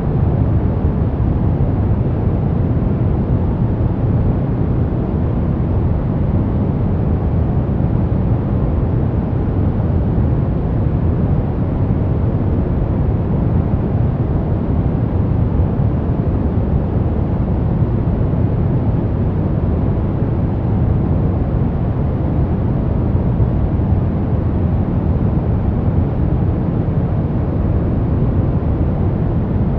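Continuous synthetic noise for sleep, billed as white noise. It is a steady, unchanging hiss weighted heavily toward the low end, so it sounds deep rather than bright.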